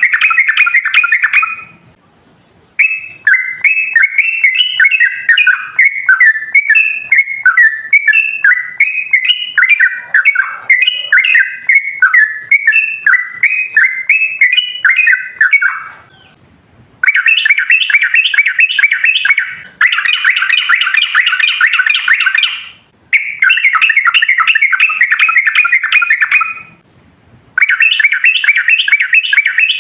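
Yellow-vented bulbul (trucukan) singing long runs of rapid, chattering repeated notes, in several long phrases broken by brief pauses.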